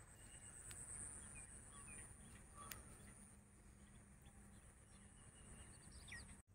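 Near silence with faint, scattered bird chirps and a thin steady high tone that stops about halfway through.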